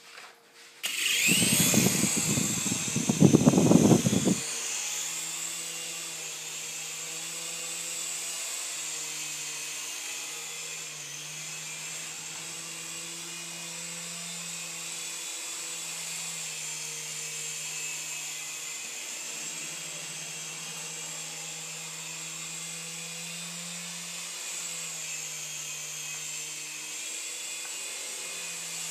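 Small electric RC helicopter's motor and rotor whining at a high pitch, spinning up about a second in and then running steadily. A loud low rushing noise covers the first few seconds.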